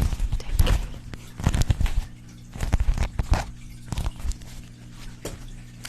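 Irregular close-miked taps, clicks and crinkles of small objects being handled, ASMR-style, in uneven clusters over a faint steady hum.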